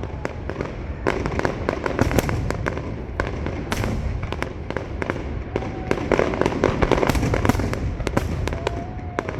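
Fireworks display going off: many sharp bangs and crackling bursts in quick, irregular succession over a steady low rumble.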